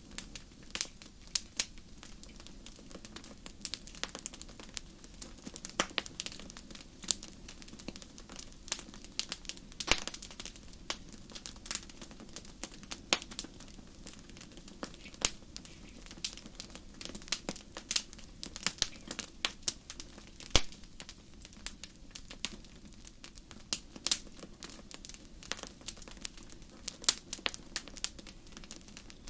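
Wood fire crackling and popping in a fireplace: irregular sharp snaps, several a second, over a low steady hiss of burning.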